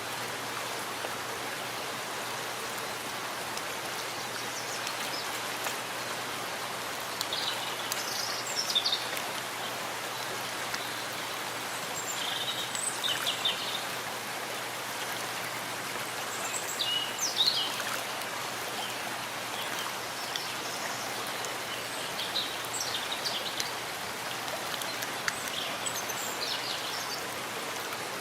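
Steady rain falling in a forest, an even hiss, with short high chirps breaking through a few times.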